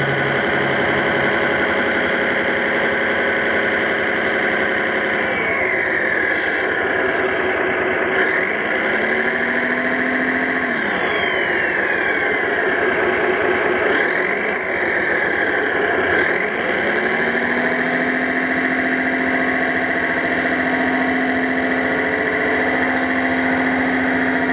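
Radio-controlled 1/5-scale Ford 6610 tractor at work, its motors giving a steady pitched hum. In the middle stretch a whine glides up and down several times, then settles to a steady tone near the end.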